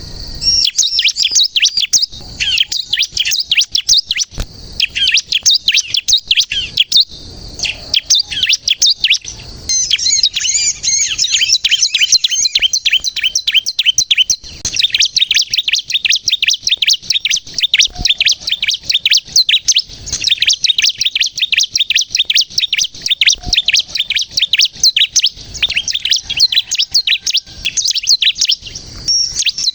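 Bar-winged prinia (ciblek kristal) singing in full, vigorous song: a fast, near-continuous run of high chirps and trills, broken by a few short pauses.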